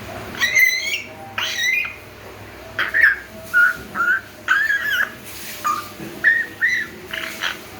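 Young African grey parrot whistling a string of about a dozen short notes and squeaky calls, the first two rising glides and the rest brief whistles, as it learns to whistle.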